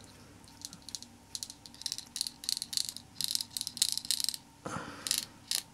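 Steel shift balls in a Simson M500 gearbox output shaft clicking and rattling in their holes as the ungreased shaft and gear are worked by hand: a quick run of light metallic clicks, then a short scrape near the end. The mechanic concludes that this ball clatter seems to be normal, usually unheard because the parts are assembled with grease.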